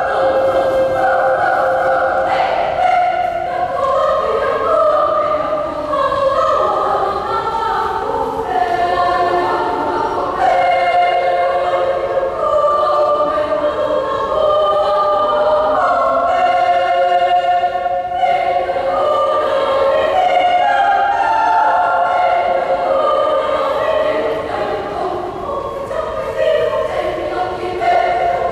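Junior high school choir singing an Indonesian Papuan folk song in several voice parts.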